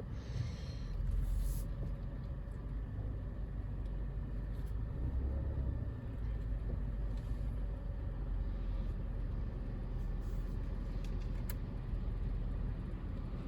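Car heard from inside the cabin, a steady low rumble as it idles.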